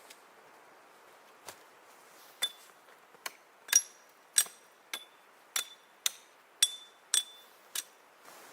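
A series of about a dozen sharp hammering blows, roughly two a second, each with a short high metallic ring.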